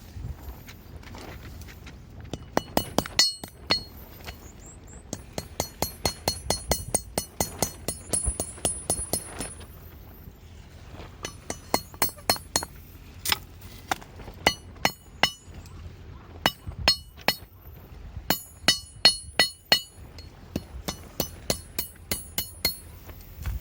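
Hand-forging: a hammer strikes metal in quick runs of blows, each with a high ring, several runs broken by short pauses.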